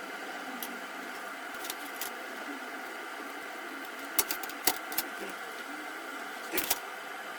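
A steady electrical hum and hiss with a handful of sharp clicks and taps: one about four seconds in, two more shortly after, and a close double click near the end.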